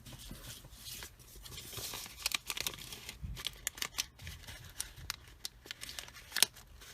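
Paper being handled and pressed: scattered crinkles, rustles and small sharp clicks, the loudest near the end.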